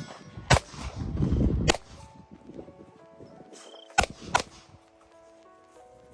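Four pistol shots from a Glock 19 fired during a movement drill: one about half a second in, one near two seconds, then a quick pair about four seconds in.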